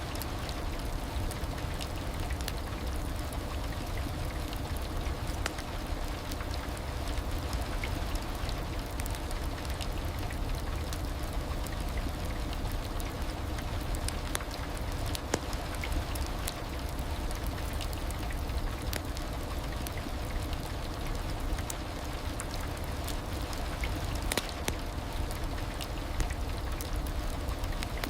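Heavy rain falling steadily, a constant wash with scattered sharper drop hits.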